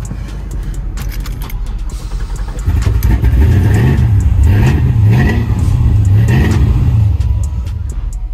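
Chevrolet Impala's engine revved several times just after being started, its pitch rising and falling. The revving is loudest from about three seconds in until about seven seconds in.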